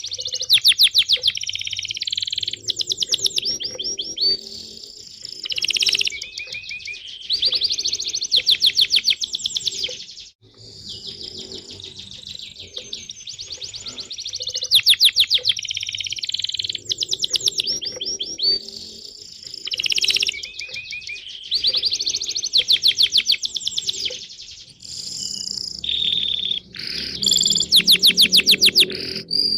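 Songbirds chirping and singing: fast trills about a second long, repeated every second or two, with short chirps in between.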